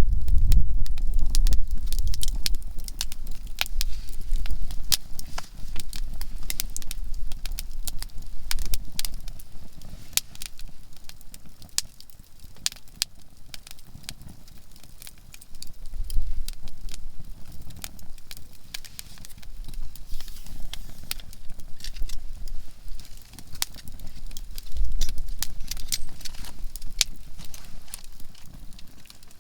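Campfire of conifer firewood crackling, with frequent sharp, irregular pops and snaps as the resinous wood bursts. A low rumble swells now and then.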